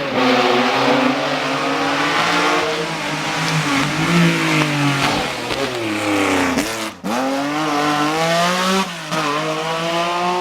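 Historic rally car engine revving hard, its pitch climbing and dropping again and again through gear changes and lifts. The sound breaks off sharply for an instant about seven seconds in, then revs climb again.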